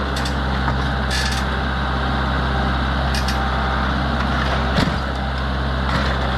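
Tractor engine running steadily while it crushes a lawn mower, with a few short sharp cracks and creaks of metal giving way, the loudest about five seconds in.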